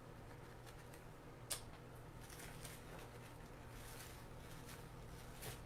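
Faint rustling of wreath materials being adjusted by hand, with one light click about one and a half seconds in, over a steady low hum.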